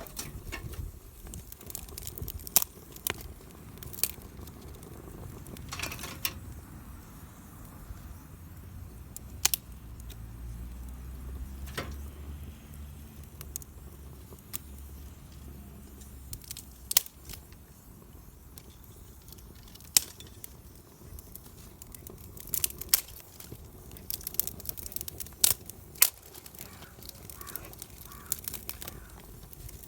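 Wood campfire crackling: irregular sharp snaps and pops, about a dozen of them louder than the rest, over a faint low rumble that swells for several seconds in the middle.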